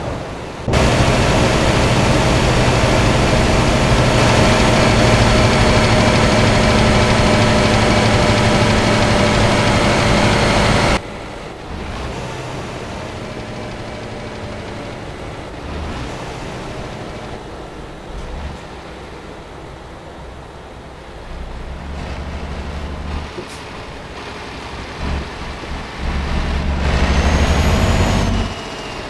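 Scania R560 heavy truck running on the road under a heavy load, a steady engine note over loud road noise. The sound cuts abruptly about 11 seconds in to a quieter stretch of the truck running, with a few knocks and a rising whine near the end.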